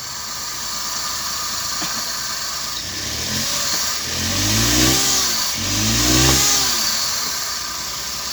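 Suzuki DA64W van's small three-cylinder petrol engine running just after starting, now running despite its crank-no-start fault; it is revved twice, rising and falling in pitch, about halfway through.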